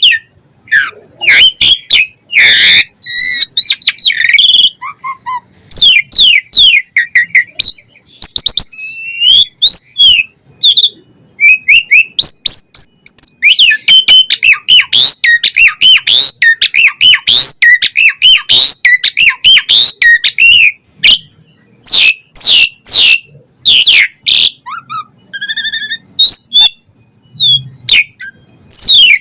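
Javan pied starling (jalak suren) singing vigorously and almost without pause: a loud, dense jumble of quick chirps, clicks and whistled up-and-down glides, with a short rapid trill near the end.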